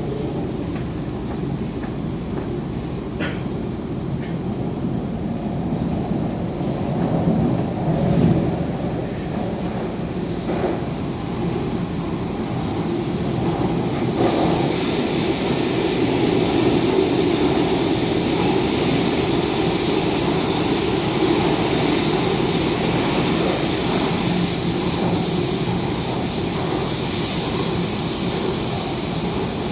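MTR K-Train running on the Tseung Kwan O line, heard from on board: a steady rumble of wheels on rail with a thin high whine that rises slowly over the first several seconds. About halfway, the rumble grows a little louder and a steady higher whine joins it.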